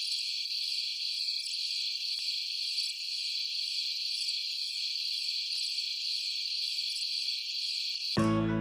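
A steady chorus of crickets chirping, high-pitched and pulsing. Plucked guitar music starts just before the end.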